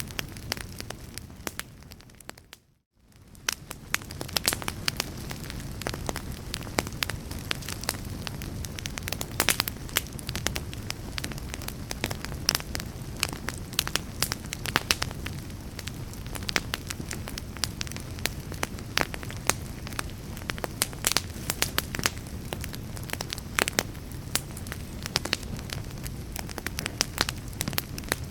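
Wood fire crackling in a fireplace, with many sharp pops and snaps over a steady low rumble. About three seconds in, the sound fades away to a moment of near silence and then fades back in, as at the seam of a loop.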